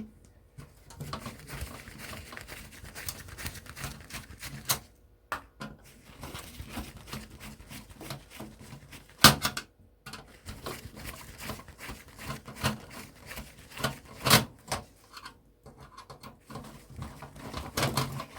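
Screwdriver clicking and scraping as screws are taken out of an electronics chassis to free its circuit boards, with scattered small taps of metal and plastic parts and one sharp knock about nine seconds in.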